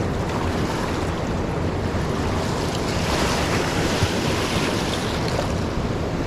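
Steady rushing noise of a fast, swollen river in full flood, close by.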